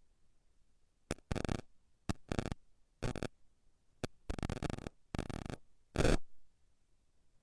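Short bursts of static-like noise cutting abruptly in and out, about nine in the first six seconds, with silence between them.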